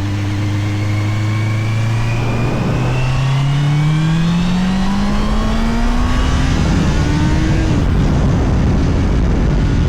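Honda CBR650R's inline-four engine through its stock exhaust, heard from the bike while riding: a steady note for about two seconds, then rising in pitch under acceleration for several seconds, with a brief dip before a final short rise. Near the end the engine note falls away and wind rush takes over.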